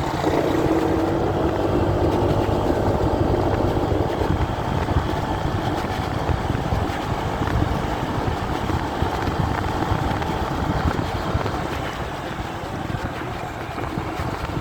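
Motorcycle ride heard through a phone carried in a pocket: a steady, muffled rumble of wind buffeting, engine and road noise.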